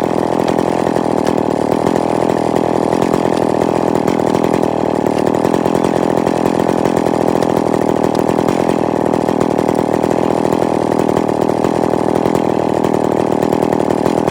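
Chainsaw engine running at a steady high speed throughout.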